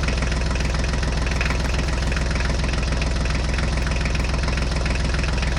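Tractor engine sound running steadily and evenly at one pace, as a sound track for toy mini tractors driving along.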